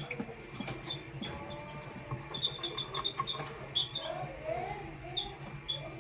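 Lovebirds chirping: a quick run of short, high, squeaky chirps a couple of seconds in, then a few single chirps near the end, over a faint steady hum.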